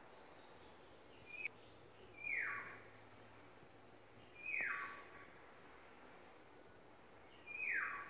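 A yellow-and-black songbird giving loud, harsh down-slurred calls, three times about two to three seconds apart, after a short higher note about a second and a half in. The uploader takes these calls for courtship.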